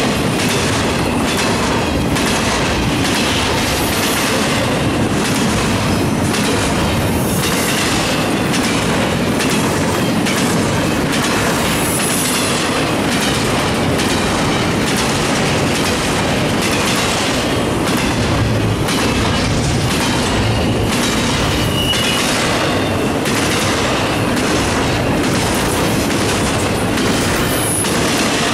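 CSX intermodal freight train's well cars rolling past close by, wheels clicking steadily over the rail joints under a constant rumble, with a few brief high wheel squeals.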